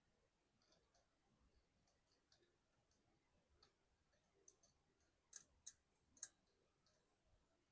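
Near silence with faint scattered clicks of small tools or probe tips touching a laptop motherboard, three slightly louder sharp clicks about five to six and a half seconds in.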